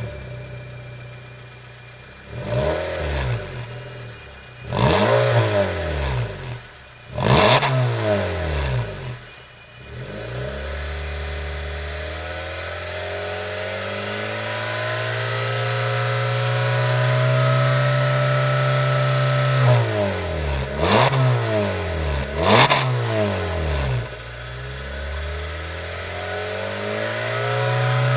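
Honda Fit RS engine through a Kakimoto Racing GTbox 06&S aftermarket muffler, revved from idle. First come three short rev blips that rise and fall. Then the revs are held up for about ten seconds, climbing slowly. Two more quick blips follow, it settles back to idle, and it is blipped again at the end.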